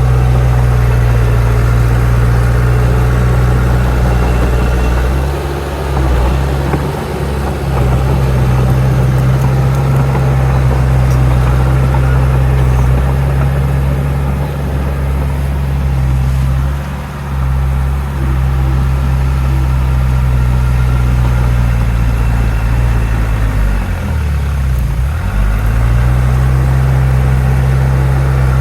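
Heavy diesel earthmoving machine running steadily under work, its low engine note dipping briefly a few times. Near the end the engine note sinks and then climbs back up as it lugs and recovers.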